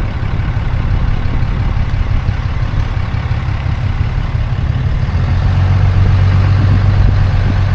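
Pickup truck's engine running with a steady low drone, getting a little louder about five seconds in.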